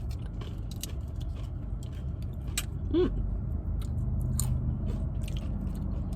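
Tortilla chips being bitten and chewed close to the microphone: irregular crisp crunches over a steady low hum. A brief pitched sound about halfway through is the loudest moment.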